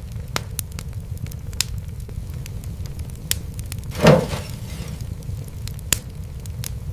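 Fireplace fire crackling: scattered sharp snaps over a low steady rumble, with one louder pop about four seconds in followed by a brief hiss.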